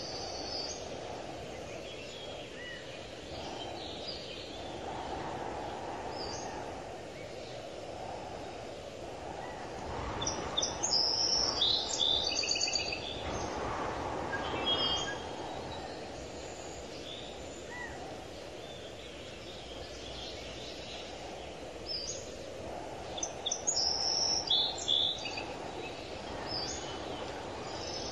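Birds chirping in short, high calls over a steady background hum of outdoor ambience. The calls come in clusters about ten seconds in and again past twenty seconds.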